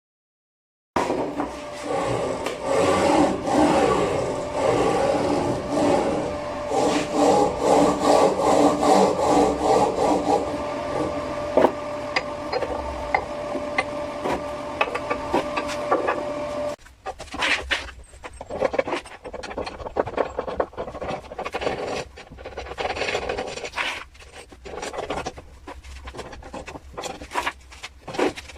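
Rasping and scraping of a tool on wood over a steady hum for the first half. Then the hum stops about halfway through, and separate, irregular scraping strokes follow.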